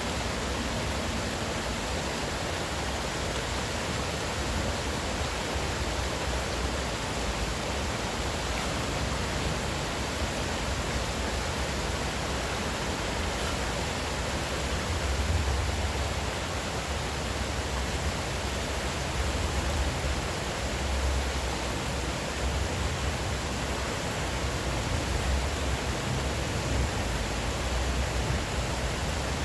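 Steady rushing of flowing stream water, with a low rumble underneath that swells now and then.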